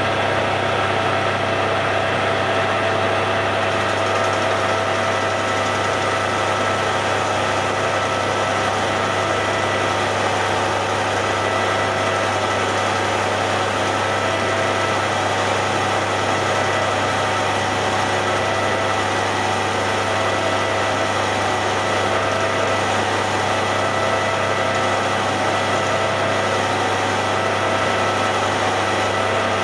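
Hare and Forbes AL335 metal lathe running steadily, a constant hum with a steady gear whine over it, while turning a steel shaft.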